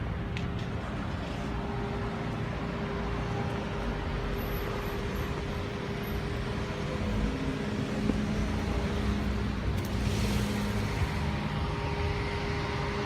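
Road traffic: cars running and driving past with a steady engine rumble and hum, growing a little louder in the second half, with a passing swell of tyre and engine noise about ten seconds in.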